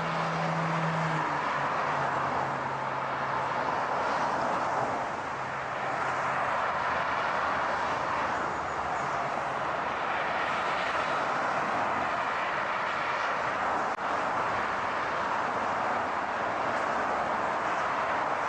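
A car on the move: a steady rush of road and engine noise, with a low hum that fades out over the first few seconds.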